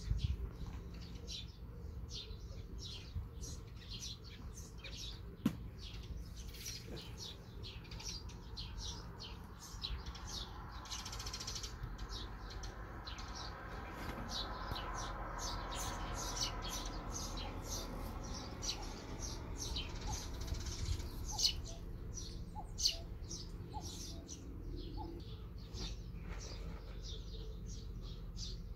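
Small birds chirping over and over, over a low steady rumble, with a few sharp clicks.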